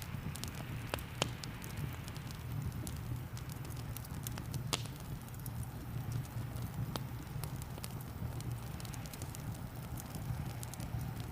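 Crackling wood fire: scattered sharp pops, the clearest about a second in and near five and seven seconds, over a steady low rumble and an even hiss that takes in rain.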